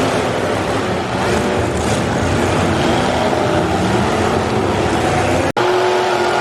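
Demolition derby cars' engines running and revving together in the arena, a loud, dense engine din with pitches rising and falling. The sound drops out for an instant near the end.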